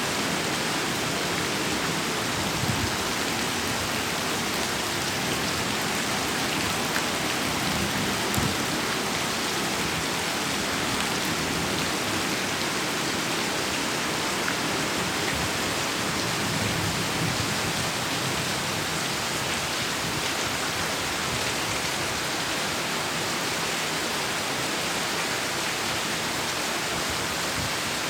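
Heavy rain pouring steadily, a dense, even hiss of rainfall.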